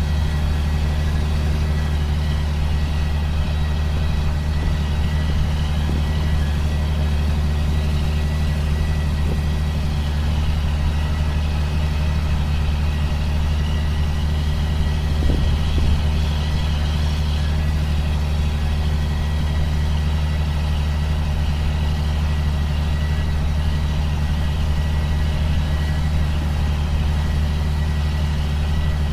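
Steady engine drone of a John Deere self-propelled sprayer running at a constant speed, with one brief knock about halfway through.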